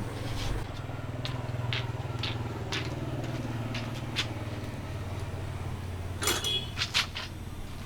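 Scattered clicks and knocks of an electric fan's guard and parts being handled and taken off, with a cluster of louder clicks near the end, over a steady low engine hum.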